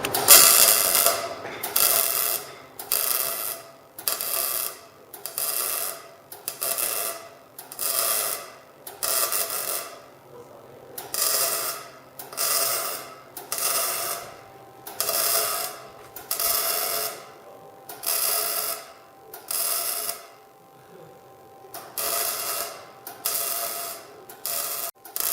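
MIG welder laying a run of short stitch welds: about twenty brief crackling bursts, roughly one every second and a quarter, with two short pauses along the way. The welds are broken into stitches to keep the heat controlled on a thin two-stroke exhaust pipe.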